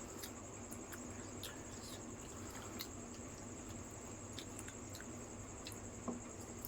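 Faint wet chewing and scattered small clicks of people eating dahi fuchka, yogurt-filled puris, with one slightly louder click about six seconds in.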